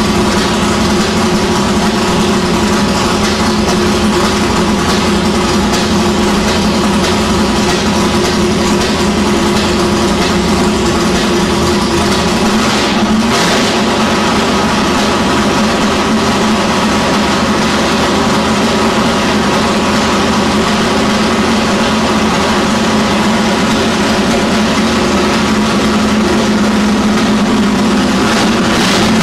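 Ford Windsor 370 cubic-inch V8 with twin carburettors in a 1966 Falcon XR drag ute, idling steadily and loudly during its first start-up run.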